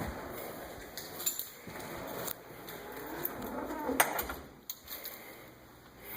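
Footsteps climbing a flight of stairs: irregular knocks and thuds, with a handful of sharper knocks.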